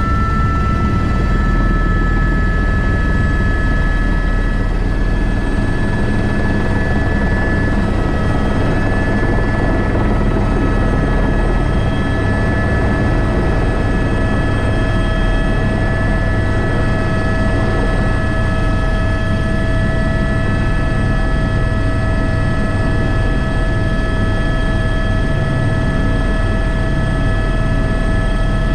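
Airbus H125 (AS350 B3) single-turbine helicopter running steadily: a continuous turbine whine of several held high tones over a low rotor rumble.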